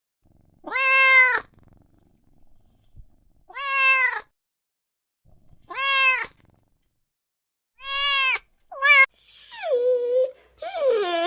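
A kitten meowing four times, about two seconds apart, each meow rising and then falling in pitch. Near the end come quicker, longer cries that slide down in pitch.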